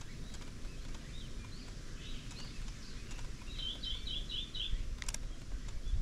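Small bird chirping: scattered single high chirps, then a quick run of about six chirps a little past the middle, over a steady low rumble. A single sharp click about five seconds in.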